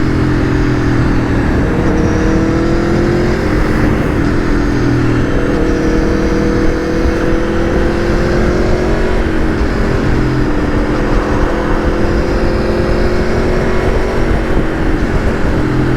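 Aprilia Tuono V4 1100 Factory's V4 engine pulling under steady acceleration on the road, its pitch climbing slowly and dropping back a few times at gear changes, with wind rushing over the microphone.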